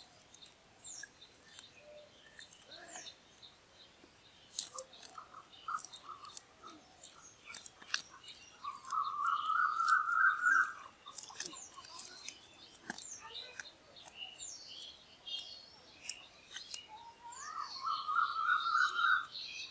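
Birds calling, with scattered short chirps and clicks. A slightly rising two-second trill sounds twice, once about halfway through and again near the end.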